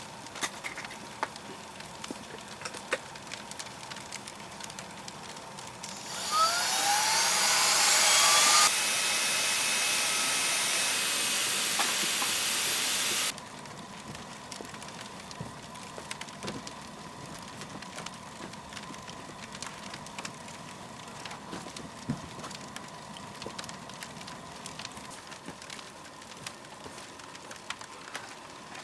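A small motorised blower starts up about six seconds in with a loud rush of air, its pitch rising as it spins up. It runs steadily for about seven seconds and then cuts off suddenly. Light clicks and crackles sound before and after it.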